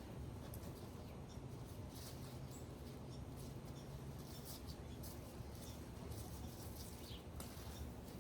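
Chickens pecking and scratching at loofah scraps, a scatter of soft clicks and rustles with a few faint high chirps, over a low steady rumble.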